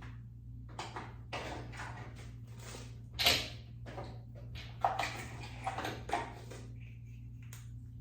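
Makeup items being rummaged through and handled: a series of rustles, clicks and knocks, the loudest about three seconds in, over a steady low hum.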